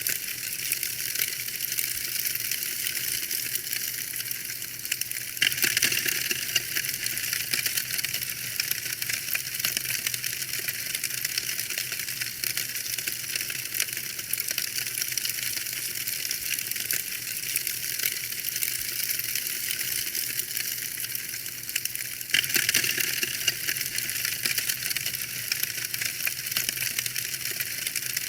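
Wood fire crackling: a dense run of small sharp pops and snaps over a steady hiss, growing louder for a few seconds after about five seconds in and again after about twenty-two seconds.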